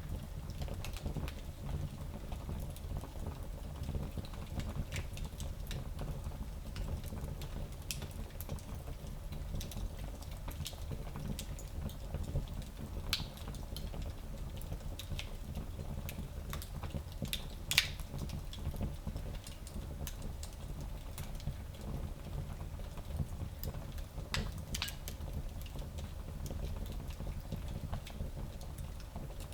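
Fire crackling in a small fireplace: scattered snaps and pops over a steady low rumble, with one sharper pop a little past halfway.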